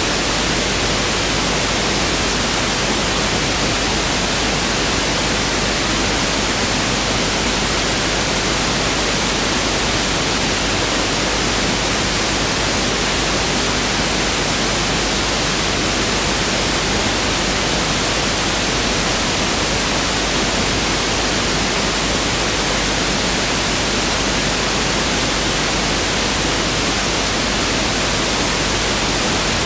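Pink noise test signal (1/f noise): a steady, unchanging hiss spread evenly across the whole range.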